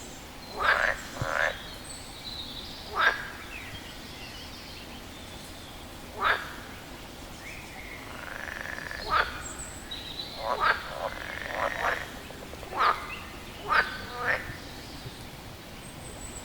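A frog calling: about ten short, sharp croaks at irregular intervals, some single and some in quick pairs, over a faint steady background hiss.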